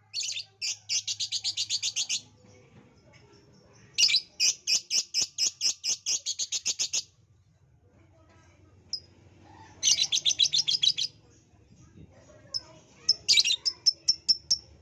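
Lovebird chattering: fast runs of sharp high chirps, about seven a second, in three bursts of one to three seconds, then a few separate chirps near the end.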